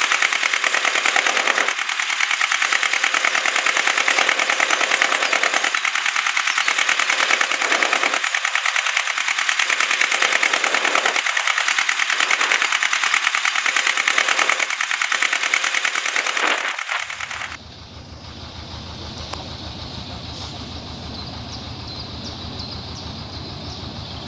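A historic narrowboat's diesel engine running, loud with a rapid steady clatter; about 17 seconds in it changes abruptly to a quieter, deeper steady chugging beat.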